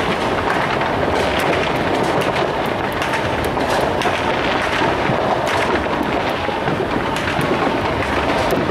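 Many fireworks going off together, a steady din of many small pops and crackles running into one another, with no single bang louder than the rest.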